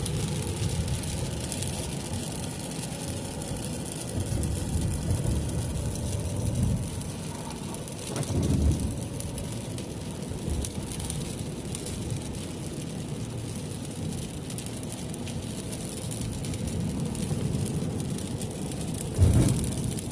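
Car driving on a wet road in the rain, heard from inside the cabin: a steady hum of engine and tyre noise with rain. There is a low thump about eight seconds in and a louder one near the end.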